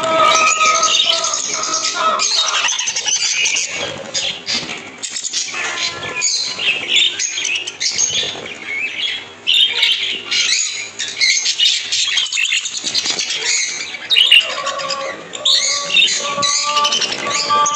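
A flock of budgerigars chattering and squawking, with a dense, unbroken mix of high chirps and calls. Steady background music comes in near the end.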